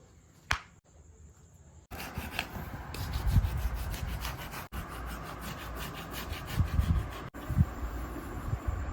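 Rubbing strokes of abrasive or brushing work on a shoe: a single click near the start, then from about two seconds in a run of quick rubbing strokes that settles into steadier rubbing with a few low knocks.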